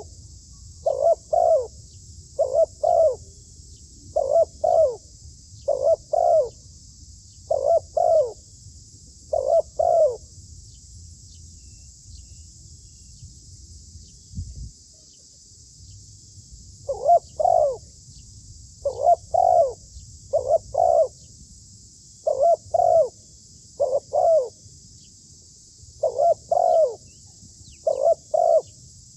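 Zebra dove cooing: short double notes repeated about every second and a half, with a pause of several seconds midway before the calling resumes. A steady high-pitched hiss runs underneath.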